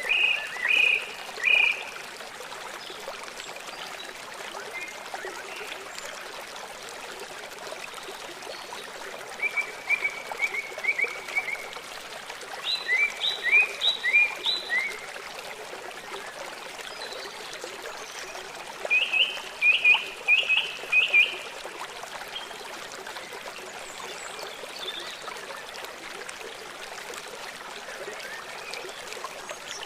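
A small songbird singing four short phrases, each a quick run of repeated high notes, over a steady hiss.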